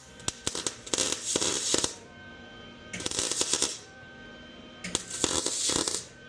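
Aerosol spray-paint can spraying black paint in three bursts of hiss about a second each, with small clicks between them, over background music.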